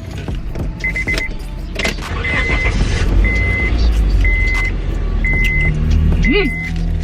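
A car's warning chime beeping steadily, about once a second, each beep short and high, over a low steady rumble.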